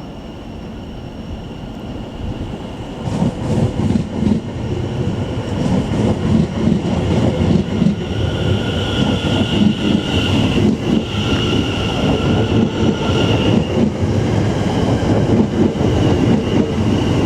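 Greater Anglia Class 720 electric multiple unit pulling out and running past, its wheels clattering rhythmically over rail joints. It grows louder about three seconds in, and a steady high-pitched whine runs through the middle of the pass.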